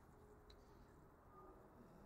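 Near silence: faint low background noise with a single faint tick about half a second in.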